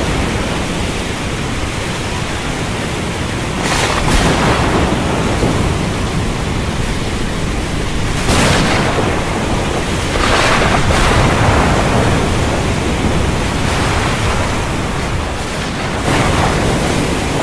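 Heavy rain pouring steadily in a thunderstorm, with louder swells of thunder rising up about four times.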